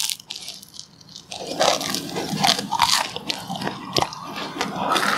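Close-up crunchy chewing of toasted brown bread with jam. A bite clicks at the very start, then after a quieter second the crackly chewing runs on steadily.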